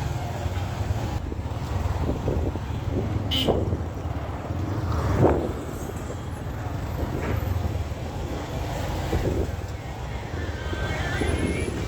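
Motorcycle taxi's engine running with a steady low rumble and road noise, with a sharp click about three and a half seconds in and a louder swell a little after five seconds.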